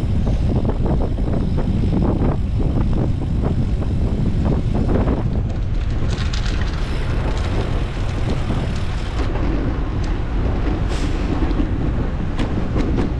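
Wind rushing over a GoPro Hero 11's microphone on a moving road bike: a loud, steady low rumble, with a few short clicks and rattles.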